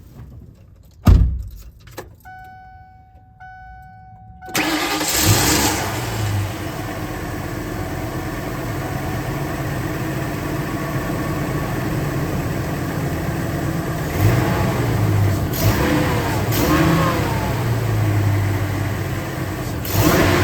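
A thump and a short dashboard chime, then the 1999 Ford E-450's Triton V10 starts about four and a half seconds in and runs steadily, its note changing briefly a few times near the end. With the exhaust-manifold stud repaired, it sounds very smooth, with none of the popping of the earlier manifold leak.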